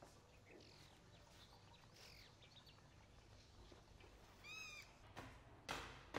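Faint, scattered bird chirps outdoors, then one short rising-and-falling animal call about four and a half seconds in, and two knocks near the end.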